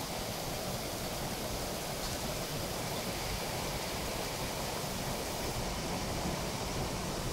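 Heavy rain pouring down steadily on trees and ground: a dense, even hiss with no breaks.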